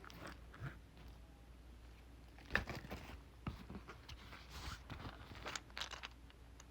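A box and its packaging handled by hand: scattered crinkles, clicks and knocks, the sharpest about two and a half seconds in.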